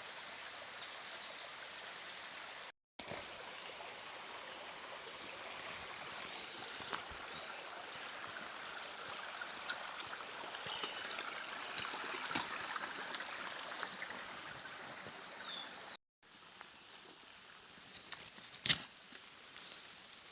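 Steady rushing of a woodland stream, with faint high chirps over it that are busiest in the middle. The sound cuts out briefly twice, and there is one sharp click near the end.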